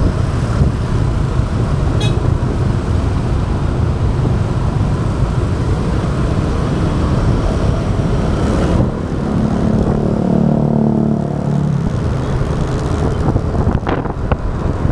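Motorbike riding in town traffic: a steady low engine and road rumble, with an engine note sliding down in pitch for a few seconds past the middle.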